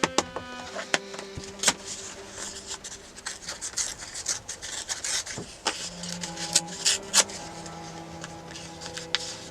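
Scratching, rubbing and clicking of paper and stationery being worked on a desk, with many short sharp clicks throughout, over soft held tones of background music.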